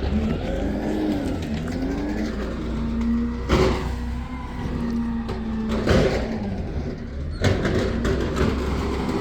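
Garbage truck engine running, its pitch rising and falling as it revs. Three loud bangs come over it: one a few seconds in, one past the middle and one shortly after.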